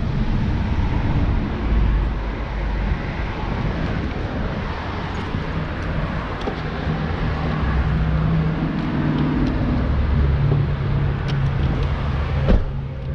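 A car engine idling steadily under outdoor noise, with a single sharp click about half a second before the end.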